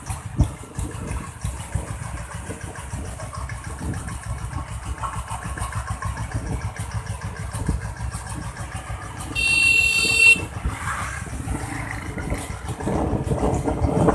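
Ruggerini diesel engine of a home-built motorbike running with rapid, rough firing pulses. A horn sounds once for about a second partway through, and the engine gets louder near the end.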